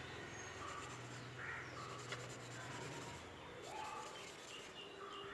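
Faint short bird calls, a few scattered chirps, over steady background noise, with a low hum during the first three seconds.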